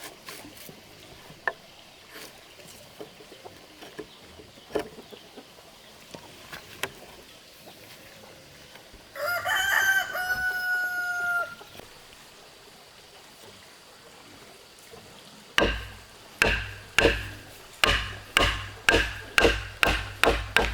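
A rooster crows once, about nine seconds in, one crow lasting about two and a half seconds. From about fifteen seconds in comes a run of about ten sharp strikes of a tool on wood, about two a second; these strikes are the loudest sound.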